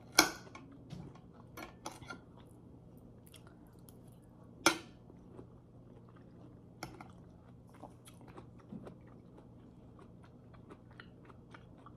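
Close-up chewing of soft canned yellow peach, with wet mouth clicks and smacks scattered throughout. Two louder sharp clicks stand out, about a quarter second in and near five seconds in.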